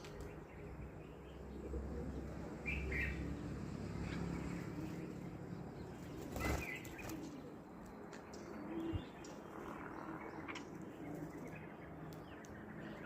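Birds flapping their wings in short flurries, with brief chirps and cooing. The loudest flurry comes about halfway through.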